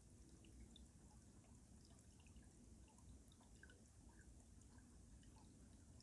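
Faint drips and trickles of stream water running under ice: many small, irregularly spaced plinks over a low, steady background.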